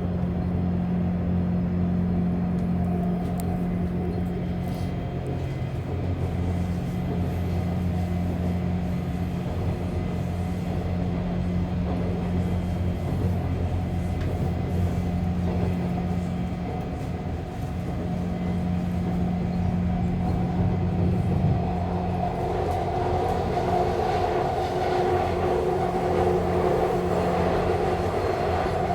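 Subway train running, a steady low motor hum with rail noise that swells and grows louder about three-quarters of the way through.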